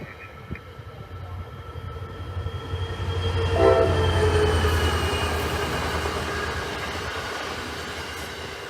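A train passing close by with a deep rumble, building to its loudest about three and a half seconds in, where there is a short horn blast, then fading away with a slowly falling whine.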